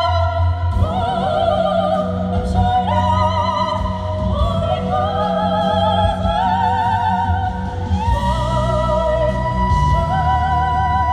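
Female voices singing in an operatic style with wide vibrato over instrumental accompaniment. The line climbs step by step from about a second in to a long held high note near the end.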